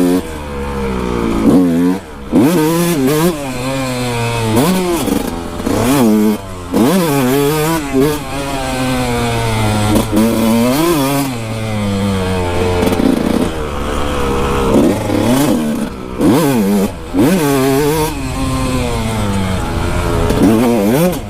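Kawasaki KX 125 two-stroke dirt bike engine revving hard through the gears, its pitch climbing and falling again and again, with short drops each time the throttle is chopped for a corner or a jump.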